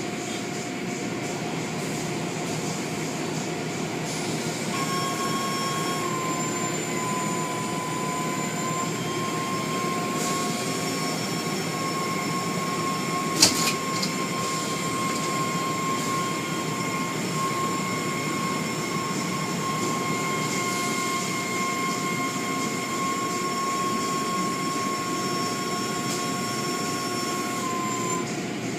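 Automatic car wash machinery running: a steady rushing noise with a high motor whine that comes in about five seconds in and drops away near the end, and one sharp knock about halfway through.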